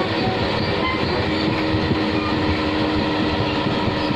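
Passenger train running along the track: a steady rumble of the wheels and carriages.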